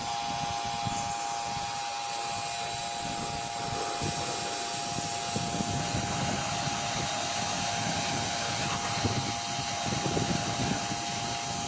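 Electric 110-volt residential pressure washer running and spraying water in a steady hissing jet, with a steady motor-pump whine underneath. It starts and cuts off abruptly.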